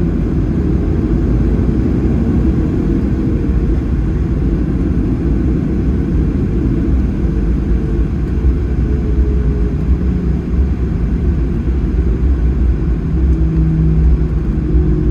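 Steady low rumble inside the cabin of a Boeing 737-800 taxiing after landing, from the idling CFM56-7B engines and the rolling airframe, with faint steady hums in it.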